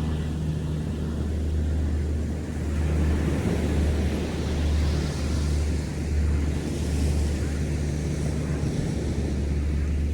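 Ocean surf washing onto a sandy beach, rising and falling in slow swells, with wind on the microphone and a steady low hum underneath.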